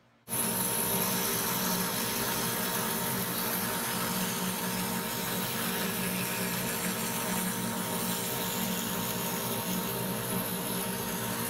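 Bandsaw running steadily at full speed, with a constant motor hum, coming on abruptly a fraction of a second in; it is being used to cut half laps in 2x4 stock.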